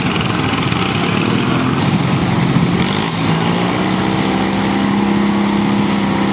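Small garden tractor engine running loud and rough, then settling about halfway through into a steady, even drone.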